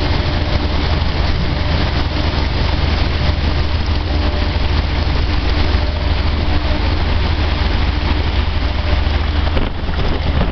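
A new dryer running: a loud, steady mechanical drone with a strong low hum and a faint steady tone above it.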